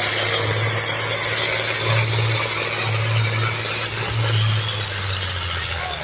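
A pulling vehicle's engine running hard under full load as it drags a weight-transfer pulling sled, a steady loud drone with heavy mechanical noise and no break.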